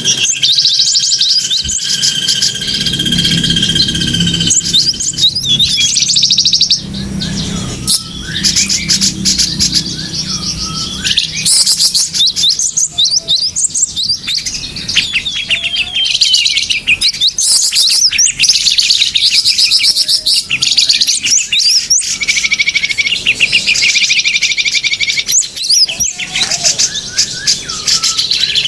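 Small songbirds chirping and trilling rapidly and continuously, a bird-lure call recording of several small birds. It opens with a long, steady whistled note over the chirping for about four seconds.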